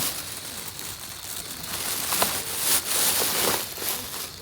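Carbonated water being poured into a glass of shochu over ice, fizzing and hissing. The fizzing stops suddenly about four seconds in.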